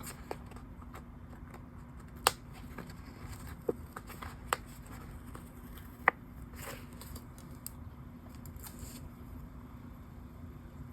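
Sparse, sharp little clicks and soft paper handling as stickers are peeled and pressed onto a journal page, over a faint steady hum.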